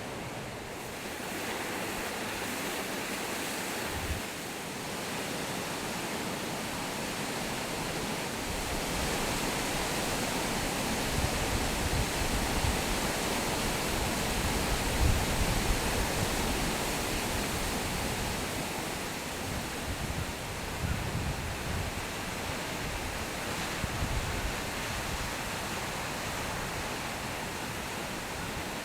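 Taughannock Falls, a high plunge waterfall, pouring steadily: a constant rushing of water, with a deeper low rumble building about eight seconds in.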